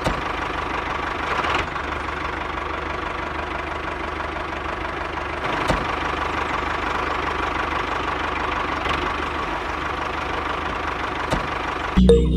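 A small motor running steadily, with a few short clicks over it.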